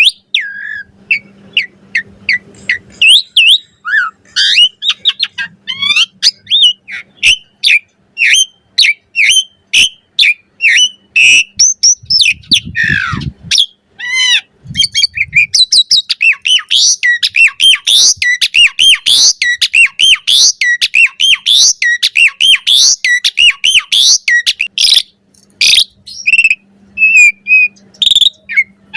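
Asian pied starling (jalak suren) singing a long, varied song of quick whistled notes, chirps and sliding calls, becoming a dense, rapid chatter in the second half.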